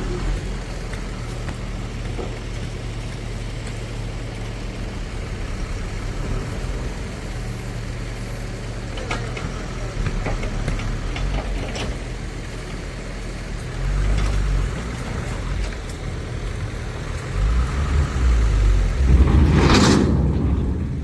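Dumper truck's diesel engine running steadily, getting louder and heavier about two-thirds of the way through, with a loud rushing burst near the end.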